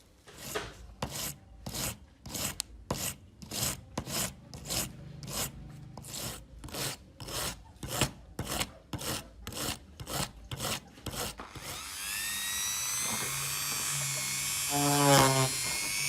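Back-and-forth hand abrasion of a metal lighter case, steady rhythmic scraping strokes about two a second, as rust and grime are worked off. About twelve seconds in, the strokes give way to a louder steady whirring with rising whistle-like tones, and a low hum joins it near the end.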